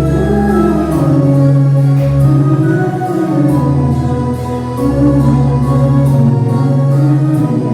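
A choir singing a hymn over sustained organ-like chords and a held bass line.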